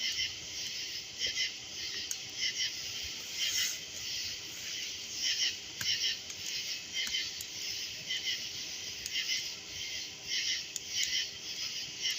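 A night-time chorus of repeated short, high chirping calls from small animals such as frogs or insects, with scattered sharp pops and crackles from a wood campfire.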